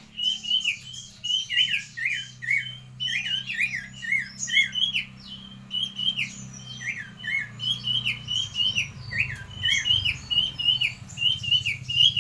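Songbird singing vigorously: a fast, unbroken run of short, sharp chirping notes, several a second, over a steady low hum.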